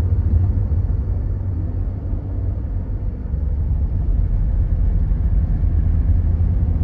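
Low, steady in-cabin rumble of a Dodge Grand Caravan's 3.6 V6 engine and road noise while driving, with the engine misfiring on cylinder 6 and causing the van to shudder.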